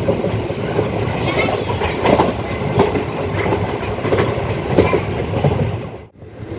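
Passenger train running, its wheels rumbling and clattering over the rail joints. The sound drops out suddenly for a moment near the end.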